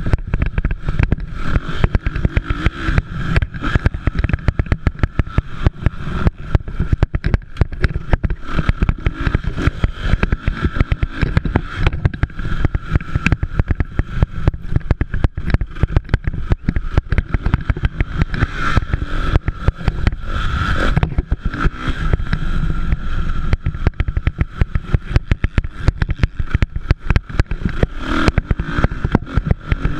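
Motocross dirt bike engines running and revving on the track, heard as a continuous loud, rough engine noise with a steady whine that swells a few times.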